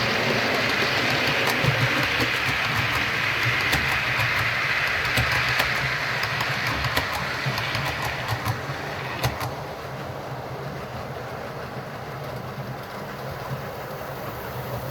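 OO gauge model train running on the layout's track: a steady whirring rumble with light clicking from the wheels, dropping off noticeably about nine seconds in.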